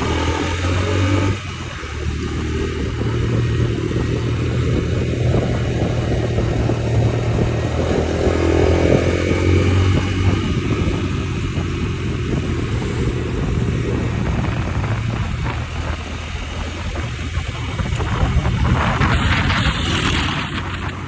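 Yamaha motorcycle engine running steadily while being ridden, heard from on the bike, with a noisy rush over it that grows louder near the end.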